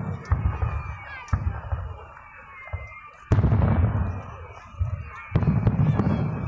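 Aerial firework shells bursting: four booms, the loudest about three and five seconds in. Each boom trails off in a low rumble.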